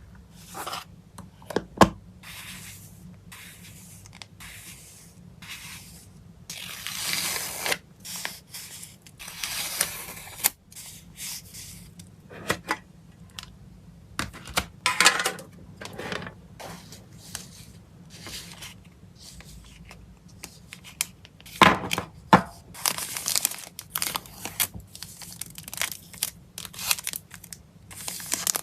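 Close-up packing noises from handling plastic sleeves, tape and wrapping: a busy run of short crinkles, scrapes and taps. Several longer tearing or peeling strokes come about a third of the way in, and there are a couple of sharp clicks.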